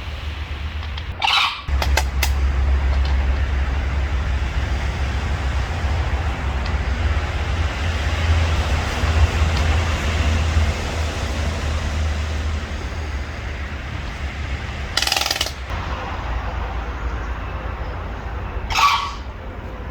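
Steady low outdoor rumble, broken by three short, harsh bird calls: one about a second in and two near the end.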